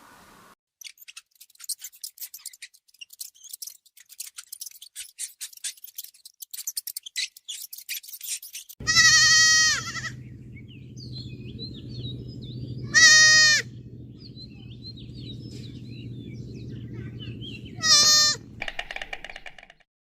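A bleating farm animal calling three times, each bleat about a second long with a wavering, quavering pitch, over a low steady hum. Before the bleats comes a long run of quick faint clicks and chirps.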